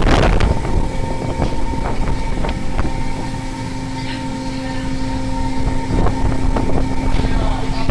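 Fishing boat's engine and onboard machinery running, a steady hum over a low rumble, with a few light knocks.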